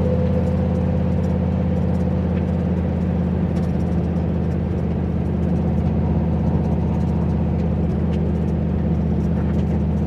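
Turbocharged 351 Windsor V8 in a Fox-body Mustang running at a steady engine speed, its exhaust giving an even, unchanging drone with no revving.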